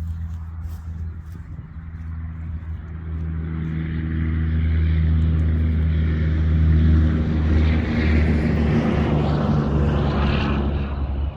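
An engine running steadily with a low hum, while a louder rushing noise swells up over the middle and falls away near the end.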